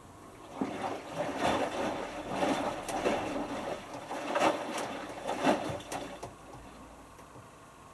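Hotpoint Futura HF8B593 washing machine's drum turning for about five seconds, a small load of wet t-shirts sloshing and flopping in the water with a few sharp knocks, then the drum stops and pauses. A wash tumble in the cool-down stage of a 60° whites cycle.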